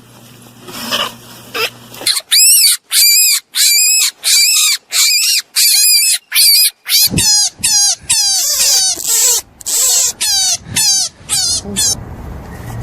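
A small animal squealing: a rapid series of about eighteen short, high-pitched, wavering squeals that begins about two seconds in, comes faster toward the end, and stops shortly before the end.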